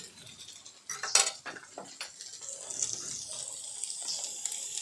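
Sausage slices frying in oil in a multi-hole snack pan, a soft sizzle that grows louder, with a few light clinks about a second in.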